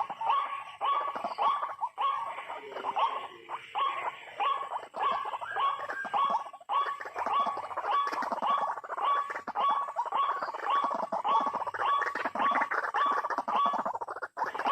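White-breasted waterhen (ruak-ruak) calling, one harsh call repeated over and over at about two calls a second.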